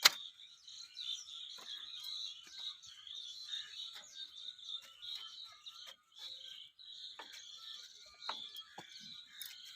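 Steady outdoor chorus of small chirping creatures, with a sharp click right at the start and a few faint clicks after it.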